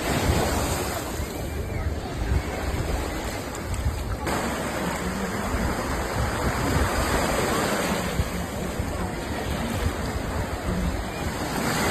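Sea waves breaking and washing up a sandy beach in a continuous rushing hiss, with wind rumbling on the microphone.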